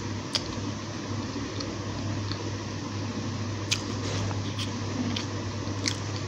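Mouth sounds of chewing a bitten potato samosa, with a few sharp clicks, over a steady low hum.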